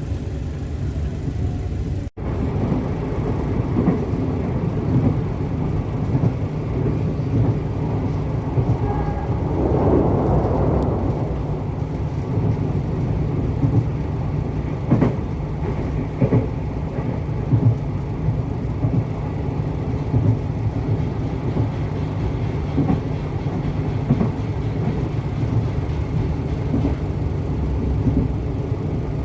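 Passenger train running at speed: a steady low rumble with scattered short knocks and clunks from the wheels and running gear. The sound cuts out briefly about two seconds in.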